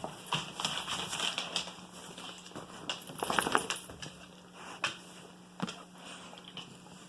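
A wolfdog and a Kangal puppy playing, with scuffling and scattered sharp knocks, and a louder burst of noise about three seconds in.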